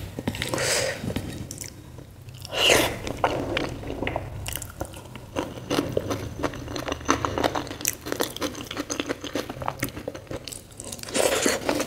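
Close-up chewing and mouth sounds of a person eating by hand: many short clicks and smacks, with a louder stretch about two and a half seconds in.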